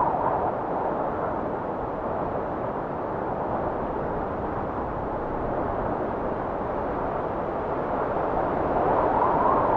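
Blizzard wind blowing in a steady rush that eases slightly and then swells into a stronger gust near the end.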